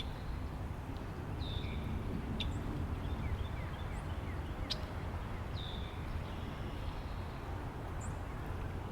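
Wind rumbling low and steadily against the microphone, with birds calling over it: a few short, sharp chips and two calls that slide down in pitch, about a second and a half in and again near the six-second mark.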